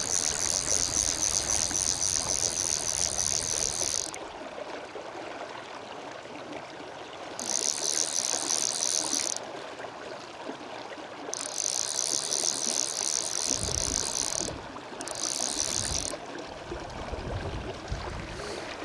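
Stillwater PL-C graphite fly reel ratcheting in four spells of fast, high-pitched clicking, about four seconds, then two, then three, then one, as line runs through it while a hooked brown trout is played in. The river's flowing water is heard throughout.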